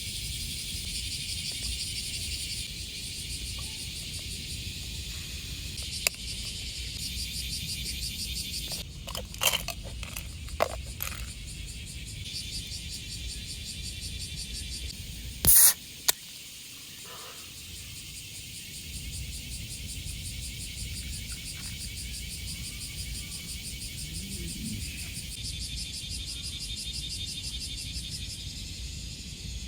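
Insects shrilling in a steady, finely pulsing high drone over a low rumble. A few sharp knocks come in the first half, and one short loud clatter about halfway through.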